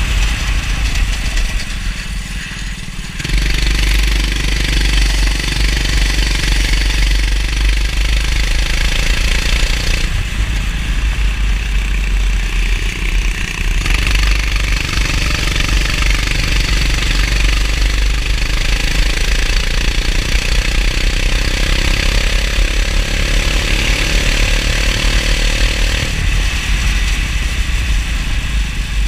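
Kart engine running hard through a lap, dipping briefly about two seconds in as the throttle eases, then pulling strongly again, with a steady hiss over it.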